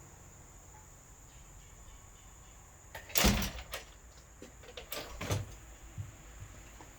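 Hard knocks and a brief clatter, like building materials or tools being handled and set down: one loud knock about three seconds in, a second burst of knocks around five seconds, and a lighter tap just after.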